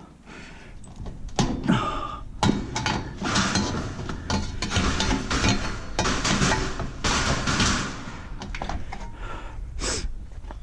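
Scrap metal being handled while a trailer is unloaded: a run of clanks and knocks, with stretches of scraping and rattling as pieces are dragged and shifted.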